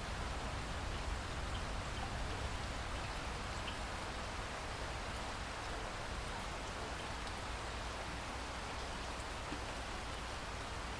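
Steady rainfall, an even hiss of rain with a few faint drop ticks.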